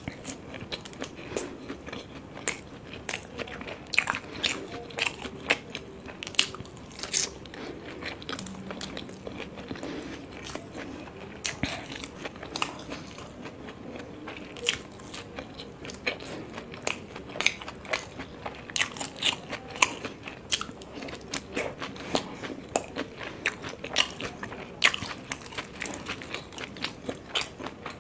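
Close-miked chewing and biting of steamed vegetable momos, with many short, irregular mouth clicks.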